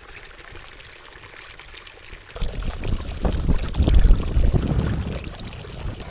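A small clear mountain stream trickling while water from it is collected into a bucket. About two seconds in a loud low rumble starts, the loudest sound here, lasting some three seconds before it fades.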